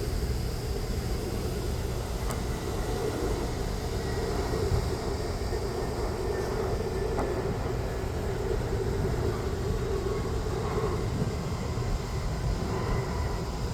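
Jet airliner engines running with a steady noise.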